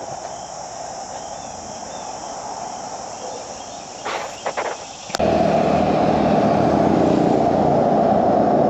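Steady high buzz of crickets over a faint low rumble. About five seconds in, it switches abruptly to the loud, steady drone of a Harley-Davidson Road Glide's V-twin engine and wind noise while riding.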